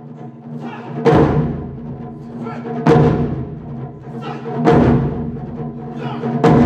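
Japanese taiko drums played in a performance: four heavy, loud strokes about two seconds apart, with lighter playing swelling between them over a steady pitched tone.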